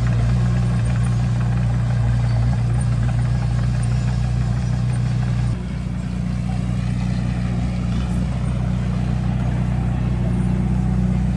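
Heavy diesel engine of a bulldozer running steadily with a deep hum; about halfway through it drops a little in level and pitch, then slowly builds back up.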